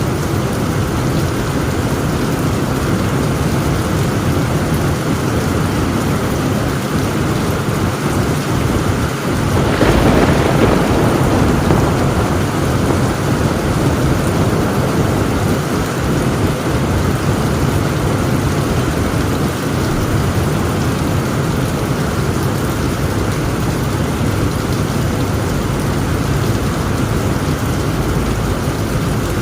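Heavy rain falling steadily on a tin roof, with a clap of thunder about ten seconds in that swells suddenly and rumbles away over several seconds.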